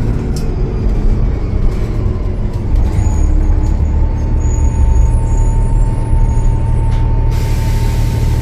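Cummins ISL9 diesel engine of a Gillig Low Floor bus heard from aboard, running louder from about three seconds in, with a steady turbo whistle coming in soon after. Near the end, a burst of air hiss from the bus's air brakes lasts about a second.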